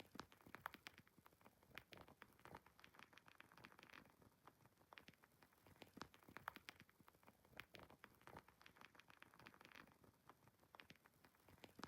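Wood fire crackling in a fireplace: quiet, irregular sharp pops and snaps, some in quick clusters, over a soft hiss.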